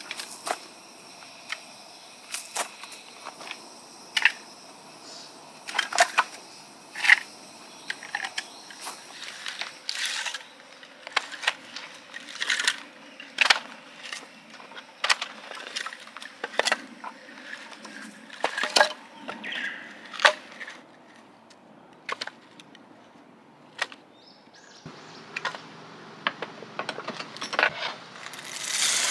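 Irregular light knocks, clicks and clatter of objects being handled, over a faint steady insect buzz; about 25 s in the background changes to a fuller steady noise.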